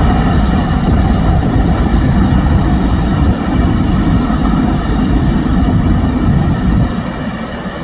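Covered hopper cars of a freight train rolling past on the rails, a steady rumble that eases near the end as the last car moves away.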